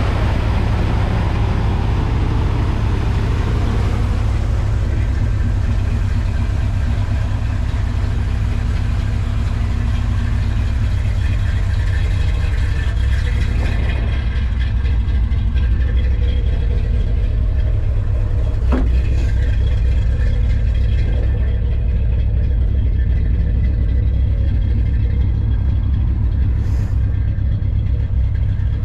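Old pickup truck's carbureted engine idling steadily after a cold start, a constant low rumble. The owner suspects it is still over-fuelling a little.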